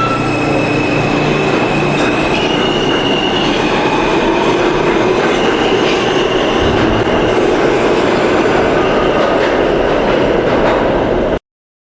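New York City subway train running on the rails: a steady rumble with thin, high wheel-squeal tones drifting over it. The sound cuts off suddenly near the end.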